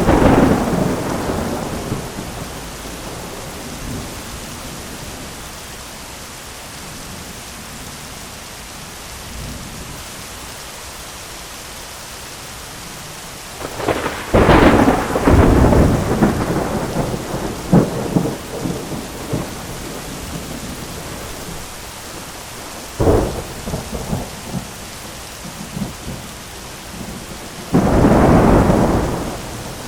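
Heavy rain falling steadily on an umbrella, with loud thunder: a clap at the start that fades over a couple of seconds, a long rolling peal about halfway with several cracks in it, a sharp crack a little later, and another clap near the end.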